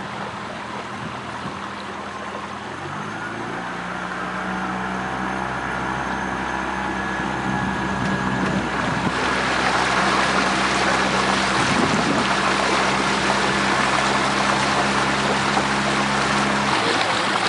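Motorboat engine running with a steady low hum under a rushing noise that grows louder over the first ten seconds or so and then holds, as the boat picks up speed.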